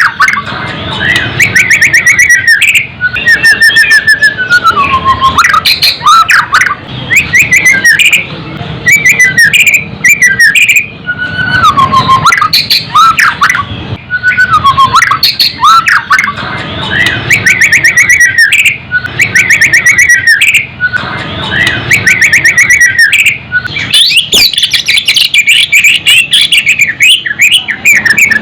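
White-rumped shama (murai batu) singing loudly: a continuous run of varied whistled phrases and rapid trilled chatter, one phrase after another every couple of seconds with brief gaps.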